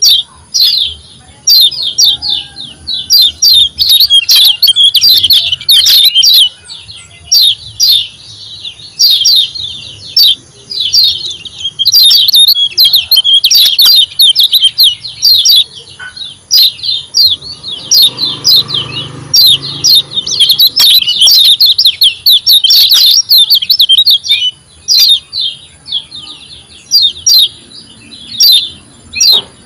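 Kecial kuning songbird singing a fast, continuous twittering song of rapid high chirps, broken by a few short pauses. It is a lure song played to coax a caged kecial kuning that is reluctant to sing.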